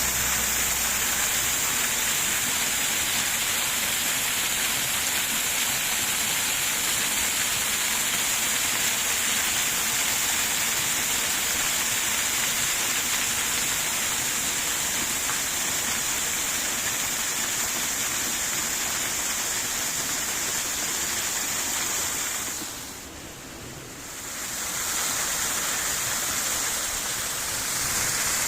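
Steady rush of running water, like a small garden waterfall or stream. It falls away for a couple of seconds about three-quarters of the way through, then returns.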